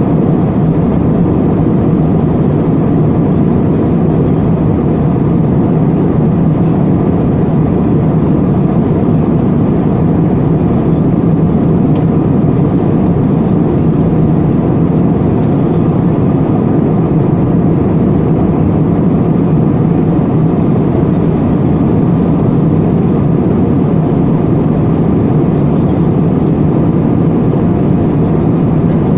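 Airliner cabin noise in flight: the engines and the rush of air heard from inside the passenger cabin as a steady, even low rumble.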